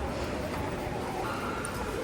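Steady ambience of an airport baggage claim hall: a murmur of distant voices over a constant background hum.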